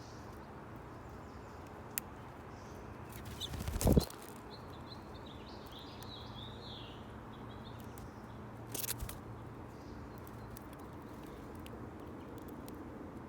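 Small birds at a feeder: a loud rustling thump about four seconds in, then a short run of high chirps, and a softer rustle near nine seconds. A steady low hum runs underneath.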